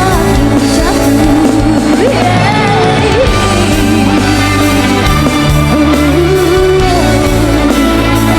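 Live band music: guitars and bass playing steadily under a sliding, bending lead melody line.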